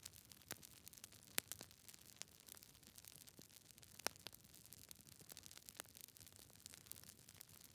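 Wood fire in a fireplace crackling: faint, irregular small pops and snaps from burning logs over a low hiss, with louder pops about a second and a half in and about four seconds in.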